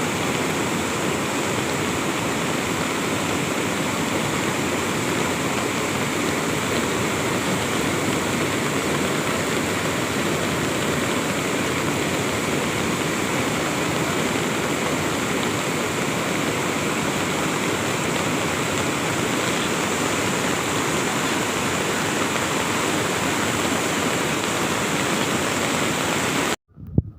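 Floodwater rushing, a steady, loud, unbroken noise that cuts off abruptly near the end.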